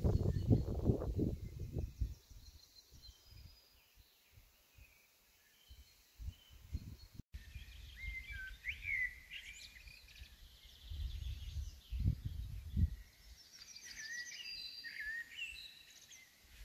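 Songbirds singing varied whistled phrases and trills, clearest after a cut about halfway in, over intermittent low rumbling bumps on the microphone.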